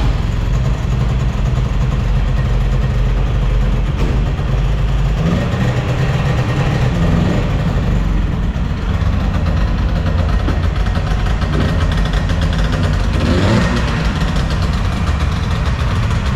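A car engine running loud and steady, with a few brief rises in pitch as it revs.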